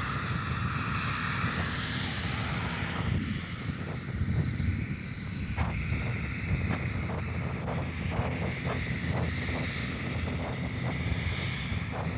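Jet airliner engines rumbling as the aircraft moves away from the runway-end beach, a steady low rumble that dies down a little early on.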